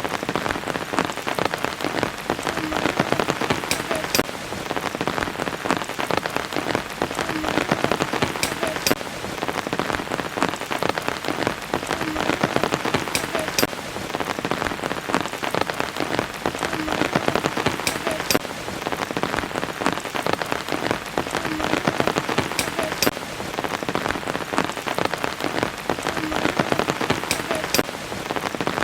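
Steady rainfall, a dense hiss of many individual drops striking a surface. The same few seconds repeat about every four and a half seconds, as a looped rain recording does.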